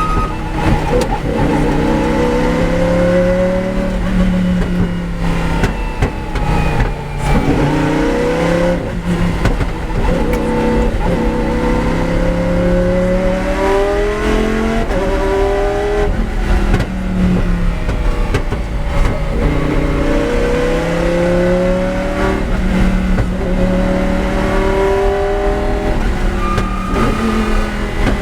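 Lamborghini Huracán race car's V10 engine being driven hard, revving up through each gear with its pitch climbing, then dropping back at each shift or lift, again and again.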